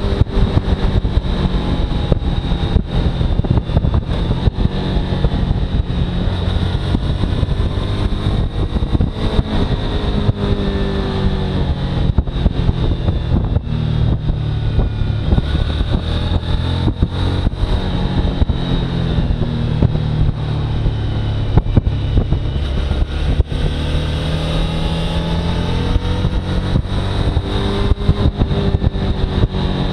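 Suzuki V-Strom motorcycle engine running under way, its revs slowly rising and falling, with wind noise on the microphone.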